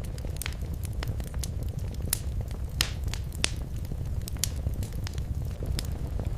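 Wood fire burning in a fireplace: a steady low rumble of flame with irregular sharp crackles and pops, the loudest a little under three seconds in.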